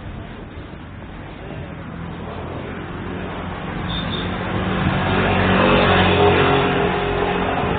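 A car driving past with its engine running, growing louder over a few seconds, loudest about six seconds in, then easing off.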